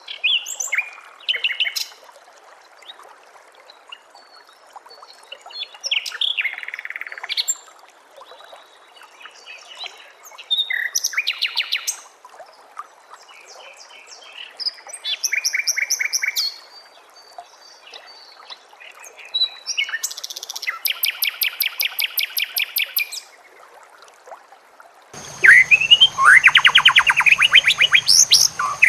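Recorded songbird calls played as bird-training audio: short bursts of chirps and fast rattling trills every few seconds. Near the end a louder, busier stretch of song begins, with a steady high whine and a low hum under it.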